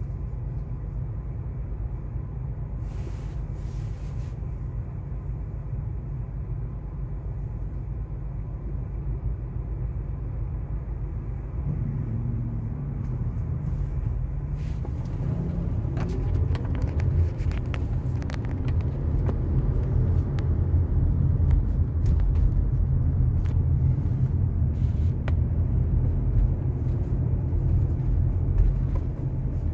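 Car on a highway: a steady low engine and road rumble. About twelve seconds in it grows louder, and the engine note rises and falls as the car speeds up.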